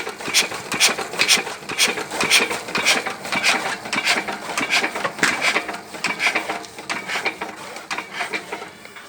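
Lister-type 8 hp diesel engine and its belt-driven chaff cutter winding down after the engine is shut off: a regular clacking about two beats a second that slows and fades near the end as the flywheel coasts to a stop.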